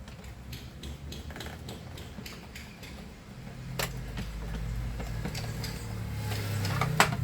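A screw being worked out of a small vacuum cleaner's plastic housing with a screwdriver: light mechanical clicks and scraping, with sharper clicks about four seconds in and near the end. A low hum grows louder in the second half.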